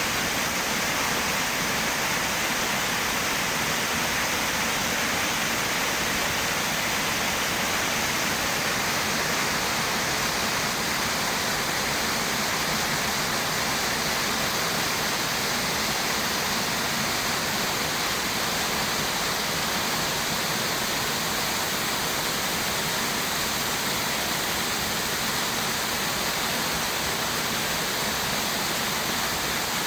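Waterfall: the steady, unbroken rush of water pouring down onto rock and splashing into the pool below.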